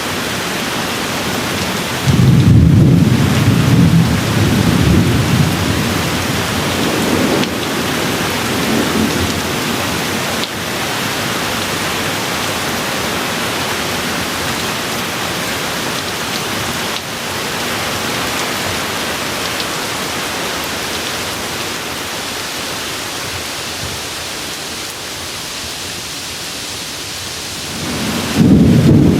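Steady rain with thunder. A loud low rumble breaks in about two seconds in and rolls on for several seconds, fading away, and a second rumble begins near the end.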